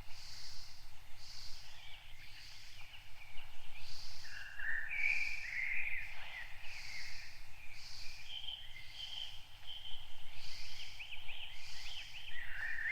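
Outdoor nature ambience: several birds chirping and trilling over a high insect-like pulse that repeats about once a second.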